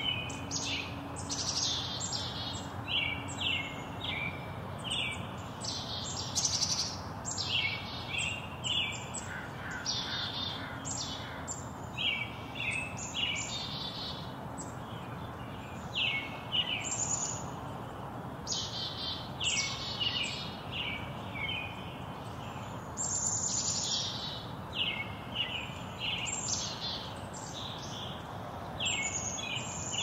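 Small songbirds chirping and twittering in quick, repeated high series, over a steady low hiss.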